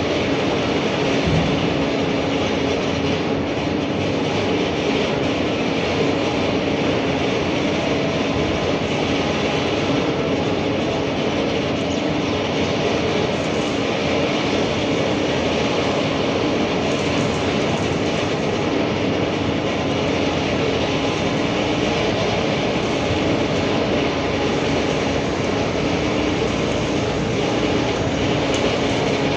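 Steady machine noise running without change, with a constant low hum under an even rushing sound.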